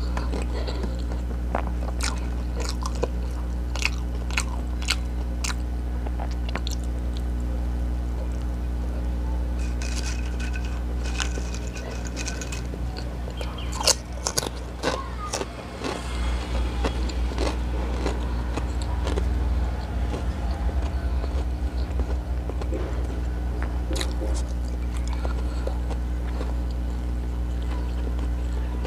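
Close-up chewing and crunching of burger and chips, with many short crisp crunches scattered through, thickest around the middle. A steady low hum runs underneath.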